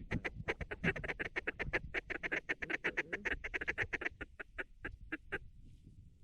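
A fast, even run of short mallard-type quacks, about eight to ten a second, like feed chatter. It stops a little before the end.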